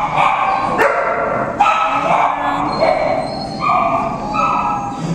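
Dogs in a shelter barking: a run of about six high, drawn-out barks.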